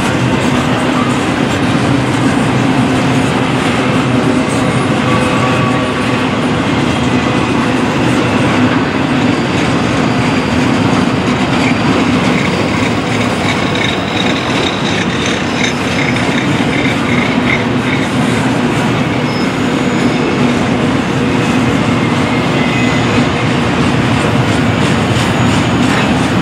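Double-stack intermodal freight train's loaded well cars rolling past close by: a steady, loud rumble of steel wheels on rail, with a faint high wheel squeal around the middle.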